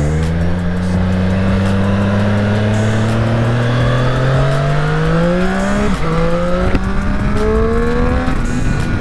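Motorcycle engine pulling under acceleration, its pitch climbing steadily, with a brief dip at a gear change about six seconds in, then easing off near the end.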